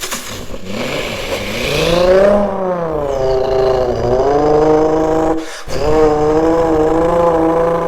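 A car engine revving under acceleration: its pitch rises and falls, breaks off for a moment about five and a half seconds in, then carries on at a nearly steady pitch, like a gear change followed by the next gear.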